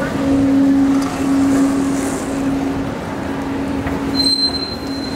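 Train running, a steady low hum over a rumble. A thin high-pitched tone sets in about four seconds in.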